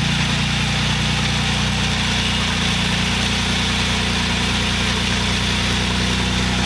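An engine idling steadily at a constant low pitch, with an even rushing hiss over it.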